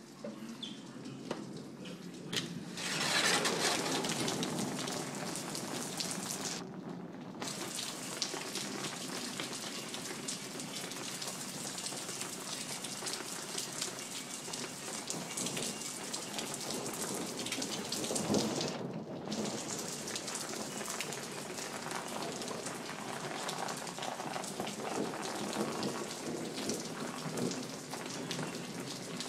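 Heavy rain pouring down in a thunderstorm, a steady hiss that grows louder about three seconds in.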